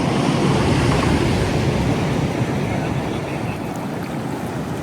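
Steady wind buffeting the microphone over the wash of ocean surf, with no distinct events.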